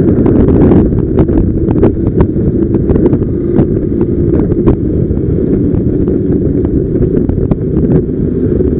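Strong wind buffeting the microphone: a loud, steady low rumble with scattered faint clicks.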